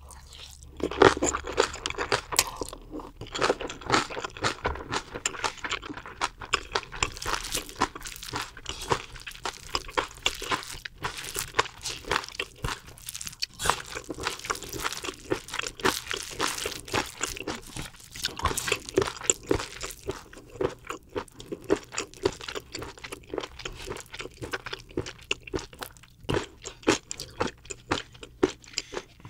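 Close-miked eating of spicy squid bibimbap with raw onion and vegetables: irregular wet chewing with a steady stream of crunches and mouth clicks.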